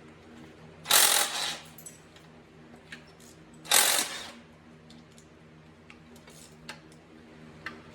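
Two metallic clatters of hand tools or parts being handled, about a second in and again near four seconds, with a few small clicks between, over a steady low hum.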